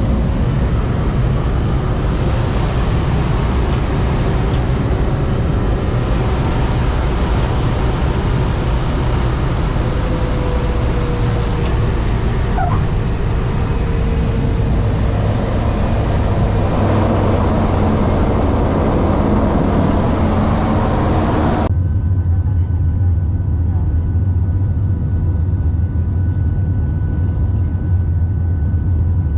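Aircraft cabin noise heard from a passenger seat: a steady, loud rumble of engines and rushing air. About three-quarters of the way through, the high hiss cuts off abruptly, leaving a low drone with a few steady hums.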